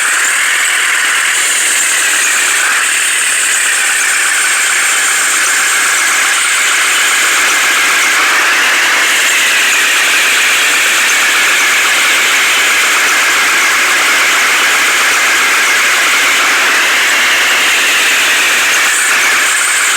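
Heavy machine engine running steadily, with a whine that slowly rises and falls in pitch.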